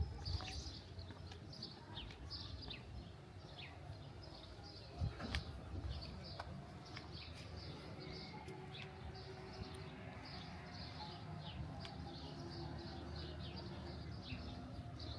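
Small birds chirping, many short high chirps repeating throughout, over a low steady hum. A couple of sharp knocks about five seconds in.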